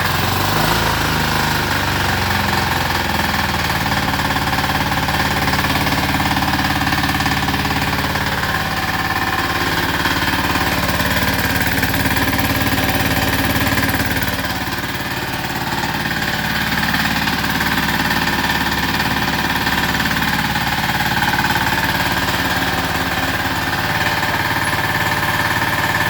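Small single-cylinder air-cooled FAW diesel engine running steadily with a clattering beat, driving a Swan belt-driven piston air compressor. Its pitch settles in the first couple of seconds, and the sound dips briefly about halfway through.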